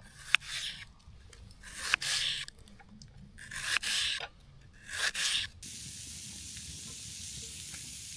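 Three short hissing sprays, then steady sizzling of food frying in a pan over a campfire, which starts suddenly about two-thirds of the way through.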